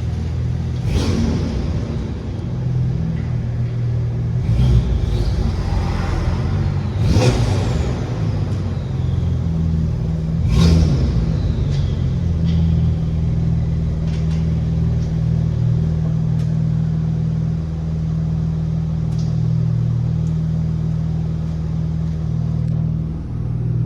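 Audi 2.7-litre twin-turbo V6 with aftermarket downpipes and the factory exhaust, running with a steady rumble and several brief louder rushes, about 1, 5, 7 and 11 seconds in.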